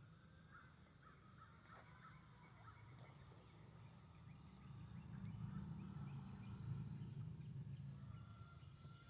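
Faint bird calls in the background, over a low rumble that grows louder about five seconds in and eases off near the end, with a steady thin high tone throughout.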